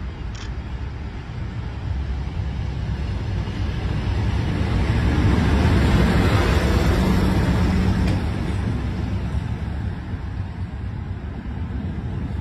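A train passing by: a rumbling noise that builds to its loudest about halfway through and then fades away.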